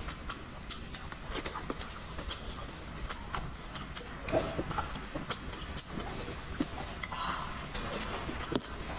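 Close-miked chewing and mouth sounds: irregular wet clicks and smacks as a mouthful of braised pork belly and glass noodles is bitten and chewed.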